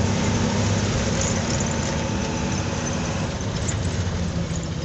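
Truck engine running, a steady low hum under road and wind noise. The hum fades about three seconds in, and a steadier, lower one comes in near the end.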